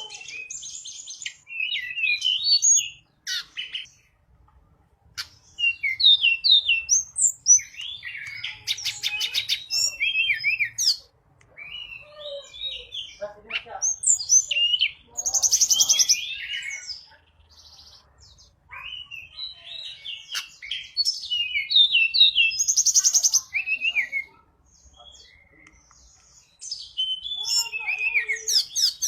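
A tledekan gunung songbird singing vigorously, in the lively 'gacor' form used as a lure recording. It gives repeated phrases of quick, varied high whistles, chatters and short rattling trills, with brief pauses between them.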